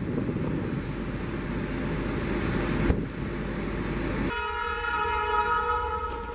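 Rumble of a loaded freight train's wagons rolling past, with one sharp clack about three seconds in. Then an electric locomotive's horn sounds a steady blast of several notes at once, lasting about two seconds.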